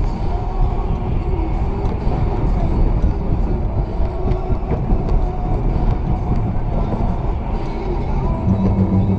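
Car driving on a snowy road: a steady low rumble of engine and tyre noise. A steady low hum joins it about eight and a half seconds in.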